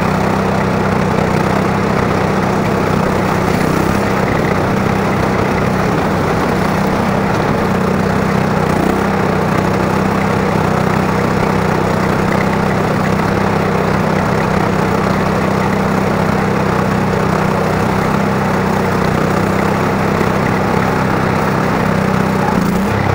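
Craftsman lawn tractor's single-cylinder engine running steadily at high throttle as the tractor drives, its pitch wavering slightly near the end.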